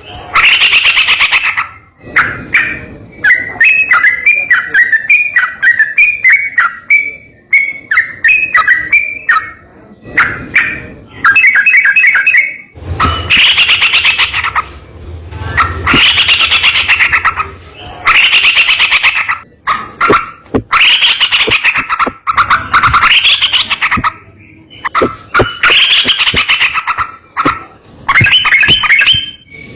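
Yellow-vented bulbul (trucukan) singing: loud, harsh chattering bursts about a second or two long, repeated every couple of seconds, with softer bubbling phrases between them in the first third.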